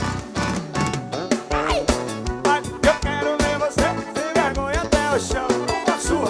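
Live forró band music: a steady drum beat under a bending lead melody line, kicking in sharply right at the start.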